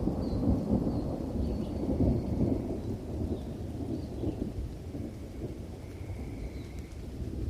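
Thunderstorm: a long roll of thunder with rain, the rumble heaviest in the first few seconds and then easing off.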